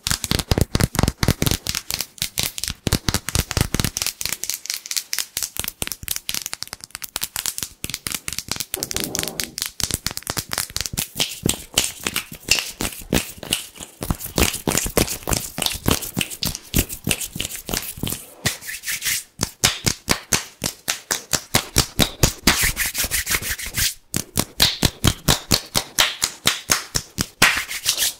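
Fast, crisp ASMR hand sounds: hands rubbed, tapped and brushed together rapidly, making a dense run of sharp dry strokes, several a second.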